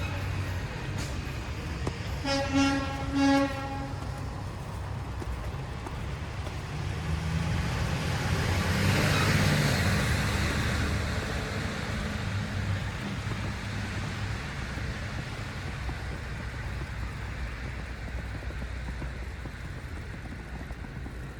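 City street traffic with a steady low rumble. A vehicle horn honks twice, briefly, about two and three seconds in, and then a vehicle passes, its tyre hiss rising and fading about halfway through.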